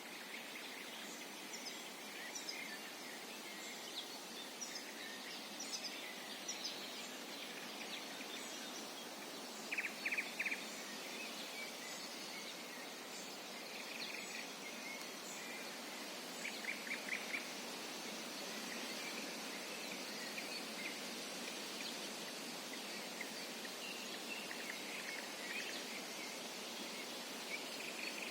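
Several songbirds calling and singing over a steady background hiss, with many short high chirps throughout. The loudest is a brief, rapid run of repeated notes about ten seconds in, with a similar run around seventeen seconds.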